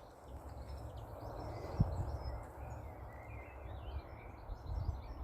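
Small birds chirping in short, scattered calls over a steady low rumble, with a single knock a little under two seconds in.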